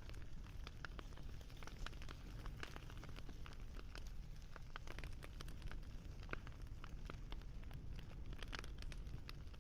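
Wood fire crackling steadily: irregular sharp pops and snaps, several a second, over a low steady rumble.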